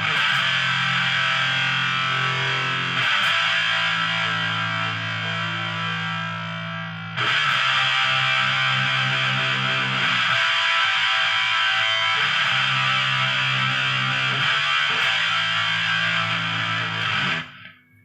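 Electric guitar played through an MXR Sub Machine fuzz pedal: heavily distorted chords left to ring, changing every three or four seconds, then cut off sharply near the end.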